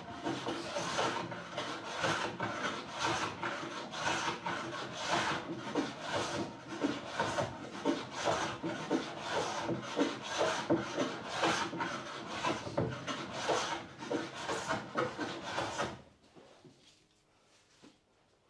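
Wood being worked by hand with back-and-forth rubbing strokes, about two a second. The strokes stop about sixteen seconds in.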